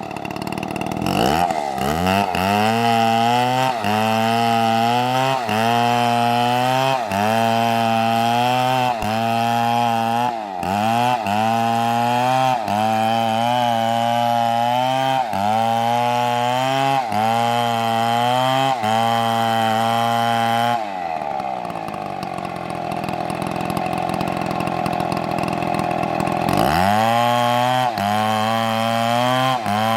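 Two-stroke chainsaw running at high revs while cutting wood. Its pitch sags and recovers about once a second. About two-thirds of the way in it drops back to idle for several seconds, then revs up again near the end.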